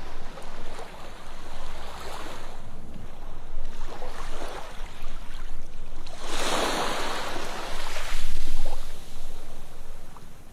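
Ocean waves breaking on a beach, a continuous rush of surf with one larger wave crashing loudly just past the middle and washing out.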